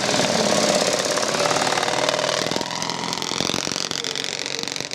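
Motorcycle engine running hard with a rapid firing rattle, its pitch rising steadily through the second half as it accelerates.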